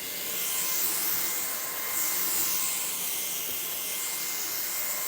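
TMA 400 W, 30 kPa cordless stick vacuum cleaner running on power level 2: a steady rush of air with a high motor whine, swelling and easing in the highs as it works over carpet.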